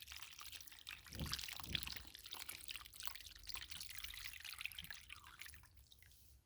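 Faint water splashing and dripping, as in handling something in a bowl of water, with two soft knocks between one and two seconds in.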